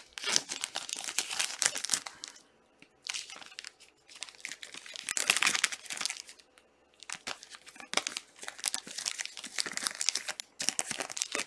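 Trading card pack wrappers crinkling and tearing as fat packs are opened and handled, in three long spells separated by short pauses.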